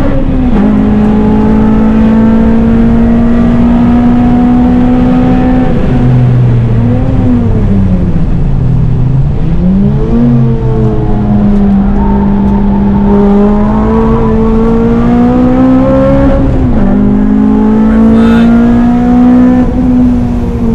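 A Honda Civic FN2 Type R's K20/K24 four-cylinder engine being driven hard on track, breathing through an aftermarket cat-back exhaust. Its pitch holds fairly level for long stretches, dips and climbs again through a braking and gear-change section about six to ten seconds in, drops briefly near sixteen seconds, and falls again at the very end.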